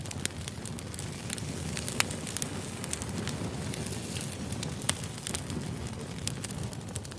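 Wood campfire burning: logs crackling and popping in irregular sharp snaps over a steady low rumble of the flames.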